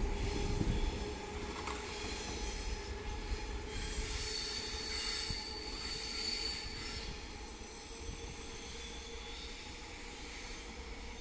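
Regional train of Vivalto double-deck coaches with an E464 electric locomotive departing and rolling away over the station tracks. The wheels squeal high and steady from about three and a half seconds in, and the running sound fades as the train recedes.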